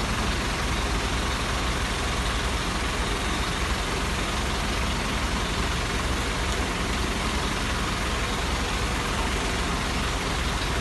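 An engine running steadily, with no change in speed, under a constant hiss of noise.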